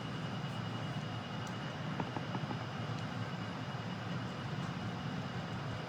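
Steady low hum of room noise, with a few faint light taps about two seconds in.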